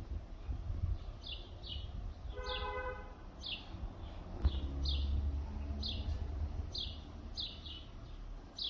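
A small bird chirping repeatedly, short high falling notes about once a second, over a steady low outdoor rumble. A brief car horn toot sounds about two and a half seconds in, and a single sharp knock about four and a half seconds in.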